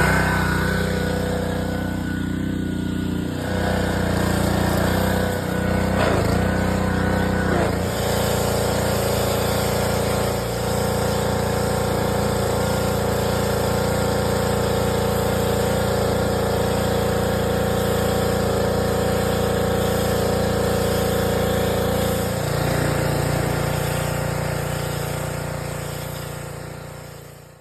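An engine running steadily, with a few small shifts in its note, fading out near the end.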